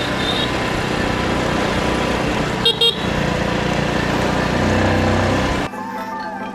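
Road vehicle on the move, a steady rush of engine and road noise, with a short horn toot a little under three seconds in. Near the end the noise drops away abruptly.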